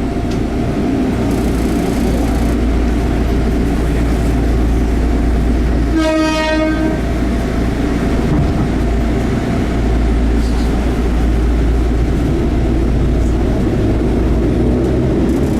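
Enshu Railway 30 series electric train running, heard from inside the car: a steady rumble of motors and wheels on the track. About six seconds in the train's horn sounds once, for about a second.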